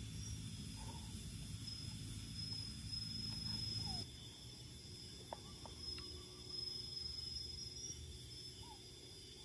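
Insects chirring steadily in the forest, a high continuous buzz, over a low rumbling background that drops away abruptly about four seconds in; a few faint clicks and short chirps.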